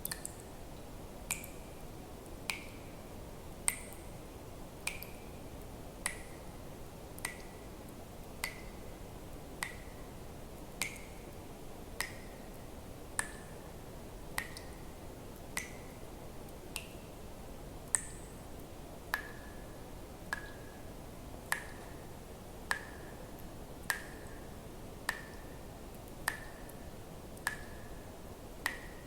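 Water drops falling one at a time into water at an even pace, about one every 1.2 seconds, each a sharp plink with a short ringing note, over a faint steady hiss.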